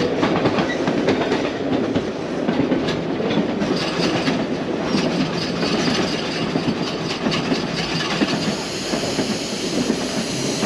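White Pass & Yukon Route narrow-gauge train running steadily uphill, its wheels clicking over the rail joints over a continuous rumble of the coach, heard from aboard a passenger car.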